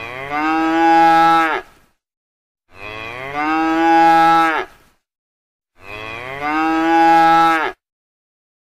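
A cow mooing: three identical long moos about three seconds apart, each lasting nearly two seconds.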